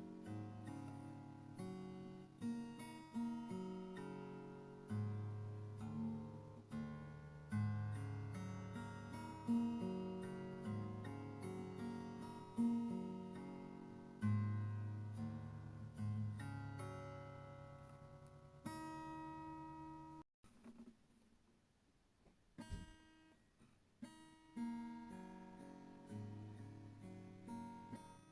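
Background music: acoustic guitar playing plucked, ringing notes, breaking off for a few seconds past the middle before starting again.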